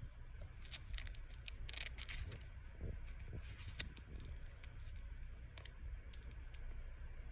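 Soft rustling and scattered small clicks over a steady low rumble, with a short cluster of louder rustles about two seconds in.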